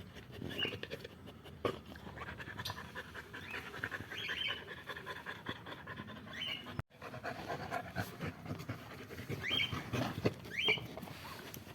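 Labrador retriever panting steadily, with a few short high squeaks scattered through.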